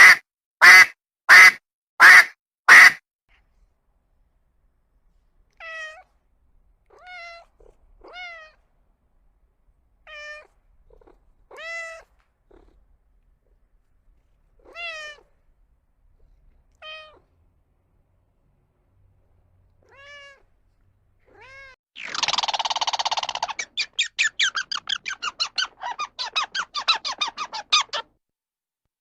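A cat meowing: about a dozen short separate meows, each rising then falling in pitch, a second or two apart. It opens with five loud, sharp sounds in quick succession, and near the end a loud rasping, rapidly pulsing sound runs for about six seconds.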